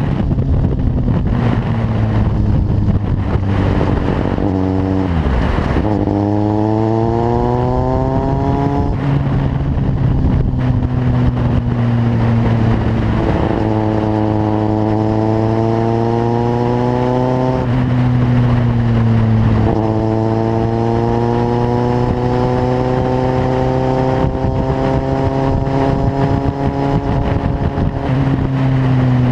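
Kawasaki Z750's inline-four engine through a carbon LeoVince exhaust, pulling up through the revs three times, the pitch climbing slowly each time and dropping between pulls, as under acceleration through the gears.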